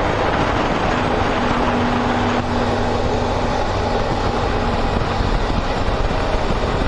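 Motorcycle on the move: steady wind rush over the microphone with the engine running underneath.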